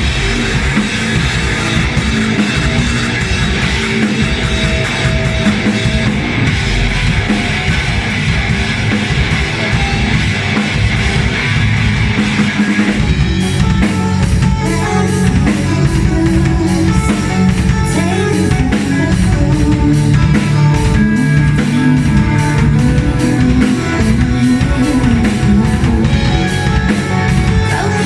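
Live rock band playing a song, with drum kit and guitar, loud. About halfway through, the drums settle into a steady, evenly repeating beat.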